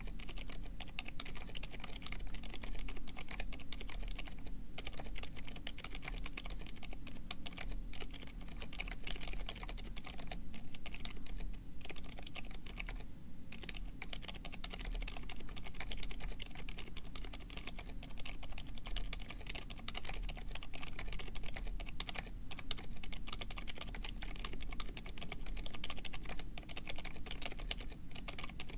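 Steady, fast typing on a Drop Tokyo60 mechanical keyboard: an aluminum case with an integrated aluminum plate, Gazzew Boba U4 silent tactile switches lubed with Krytox 205g0, and dye-sublimated PBT keycaps. The keystrokes come thick and continuous.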